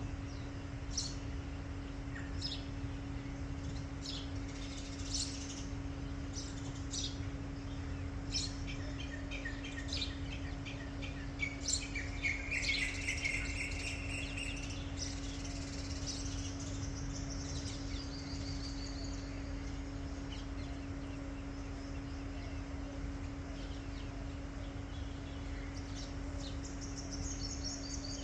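Birds chirping and calling in short high notes, with a quick trill around twelve to fourteen seconds in. A steady low hum and a low rumble run underneath.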